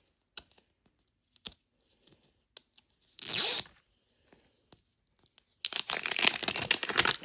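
A few light plastic clicks of small pieces being handled, then a short tear about three seconds in. Near the end comes a longer stretch of plastic wrapping being torn and crinkled open, the loudest part.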